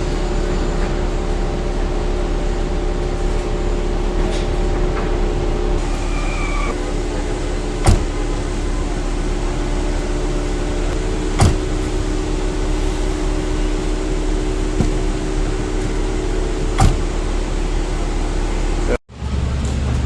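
Electric window-regulator motor in a car door running the glass down and up, a steady whirring hum with a few sharp clicks.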